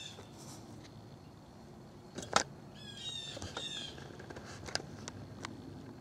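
Birds chirping in short descending calls, a few near the start and a cluster about three seconds in, with several sharp clicks, the loudest about two seconds in, over a faint steady hum.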